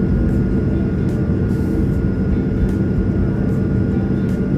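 Steady drone of a jet airliner in flight, heard inside the cabin: an even, low rumble with a faint constant whine above it.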